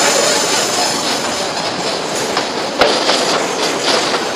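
Metre-gauge freight train of tank cars rolling past close by: a steady rumble and rattle of steel wheels on rail, with several short clacks in the second half, the sharpest a little under three seconds in, as the last cars go by.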